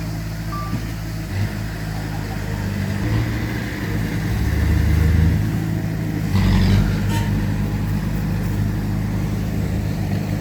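Heavy diesel engine of earthmoving machinery running, revving up about four to five seconds in, with a clank about six seconds in. A single short reversing beep sounds near the start.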